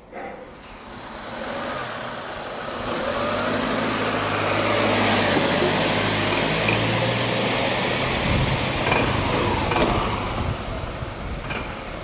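A motor vehicle passing close by, its engine and tyre noise swelling over the first few seconds, holding, then fading away near the end.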